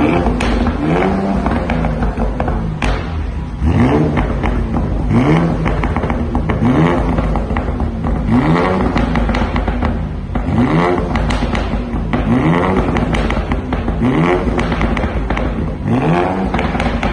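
Porsche Cayenne S engine revved again and again through an aftermarket valved axle-back exhaust, each blip rising in pitch and falling back, about one every second and a half.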